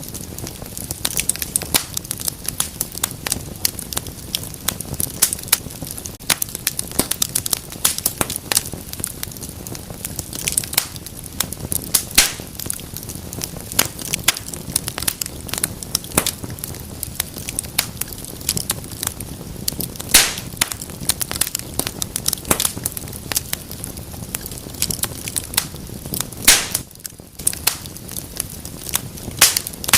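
Wood fire burning in a fireplace, crackling: frequent irregular sharp pops and snaps over a steady low noise of burning.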